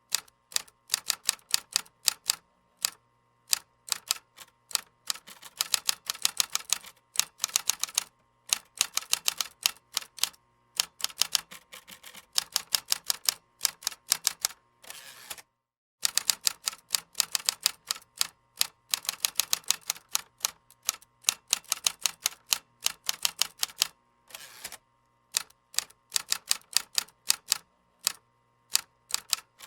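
Typing on a keyboard: rapid keystroke clicks in quick runs broken by short pauses. The sound drops out completely for a moment about halfway through.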